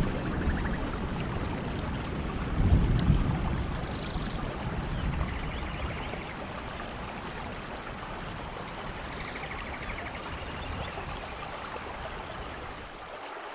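Steady rainfall with low rolling thunder, the strongest rumble about three seconds in, the rumble easing off after the middle. A few faint, short high chirps sound over the rain.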